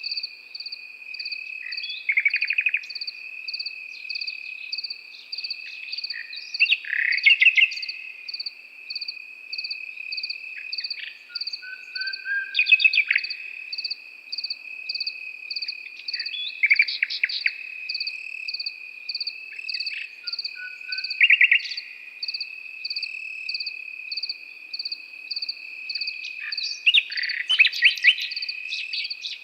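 A nightingale singing, loud phrases of rapid notes about every four or five seconds, over crickets chirping steadily and evenly.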